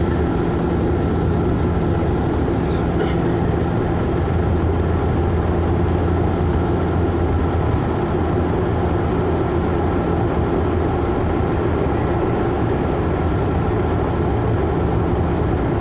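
Steady cabin drone of a Bombardier Q400 turboprop airliner in flight, the propeller hum holding an even pitch.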